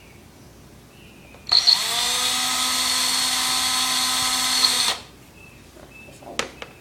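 Cordless drill running for about three and a half seconds, boring out the centre hole in a plastic egg: a steady whine that spins up about a second and a half in and cuts off suddenly. A few light clicks follow near the end.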